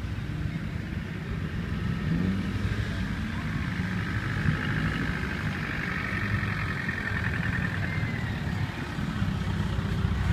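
Land Rover Defender engine running at low speed, a steady low rumble with a brief rise in revs about two seconds in.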